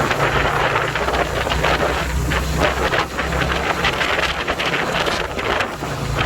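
Yamaha Virago 250's air-cooled V-twin engine running steadily while riding, nearly buried under heavy wind buffeting on the microphone.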